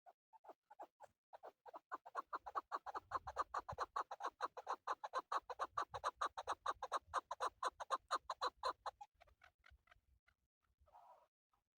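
Male chukar partridge calling: a rapid run of clucking notes, about seven a second, that builds up over the first couple of seconds, holds, then fades away. A single short call follows near the end.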